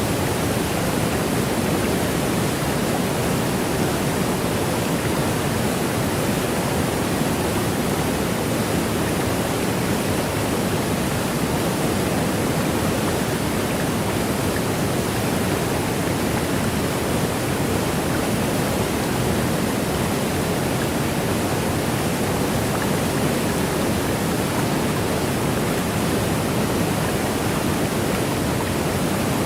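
Waterfall: a steady, even rush of falling water, deepest and fullest low down with a hiss above.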